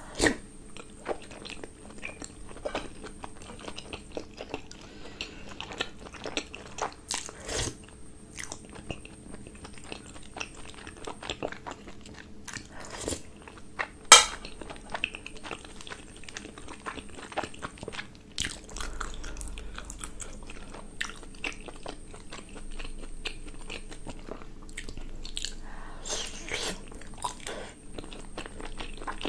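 Close-miked mouth sounds of a person biting and chewing soft steamed momo dumplings with sauce: steady chewing with many short mouth clicks, and one sharp, much louder click about halfway through.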